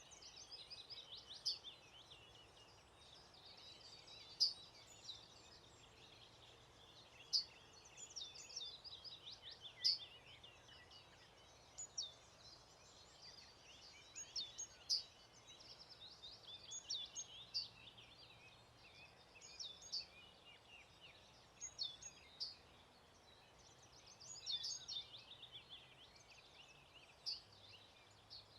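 Several songbirds singing at once: dense, high chirps and trills, with sharper single notes standing out every second or two.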